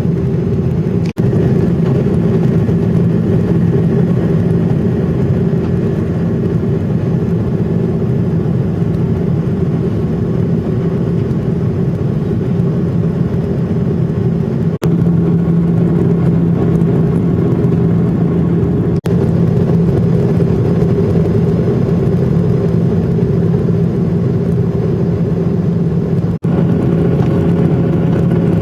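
Jet airliner engines running, heard from inside the passenger cabin as a steady, loud rumble with a hum and fainter higher tones. The sound drops out for an instant about a second in and three more times.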